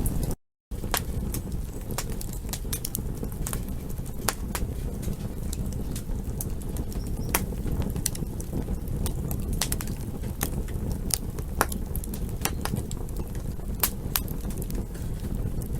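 Campfire crackling: irregular sharp pops and snaps of burning wood over a steady low rumble. The sound cuts out completely for a split second about half a second in.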